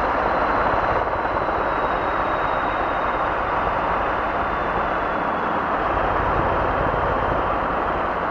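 Robinson R22 helicopter's engine and rotor heard from inside the cabin in flight, a steady, even noise.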